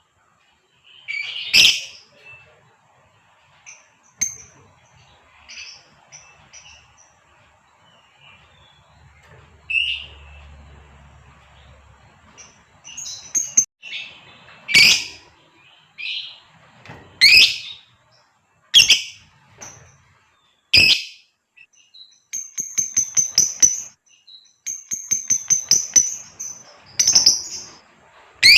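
Female lovebird calling: sharp, shrill shrieks, at first spaced out and then every second or two, with softer chirps between. Near the end come quick runs of short, high ticking chips, several a second.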